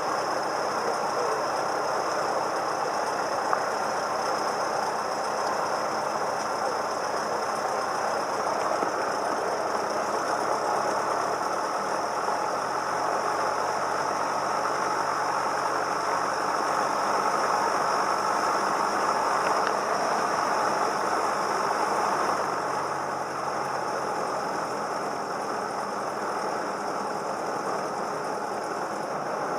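Steady drone of a Cessna 172M's four-cylinder Lycoming engine and propeller heard inside the cabin. It grows slightly louder in the middle and eases off a little about two-thirds of the way through.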